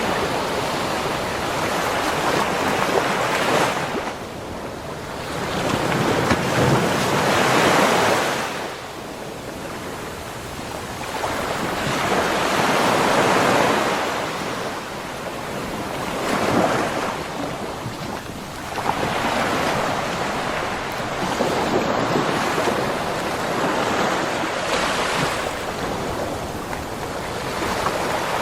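Ocean waves breaking on a beach, each one swelling into a rush of surf and washing back, about every three to six seconds, with some wind on the microphone.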